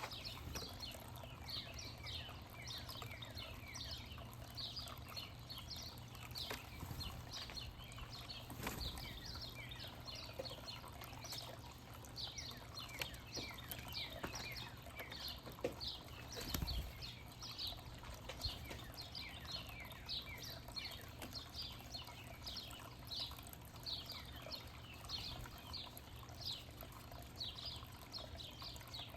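Small songbirds chirping continuously, many short high chirps that each drop in pitch, several a second, overlapping like a flock. A couple of sharp knocks cut in, the louder one a little past halfway.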